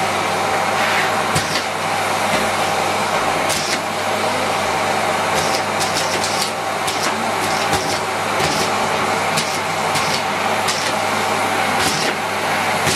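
Miele Complete C3 canister vacuum cleaner running steadily, with scattered sharp clicks and rattles of biscuit pieces being sucked up through the wand and hose.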